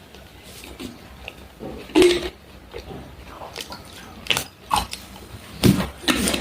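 Close-miked eating sounds: chewing and mouth noises with the clatter of dishes and cutlery, including a few sharp clacks, the loudest about two seconds in and again near the end.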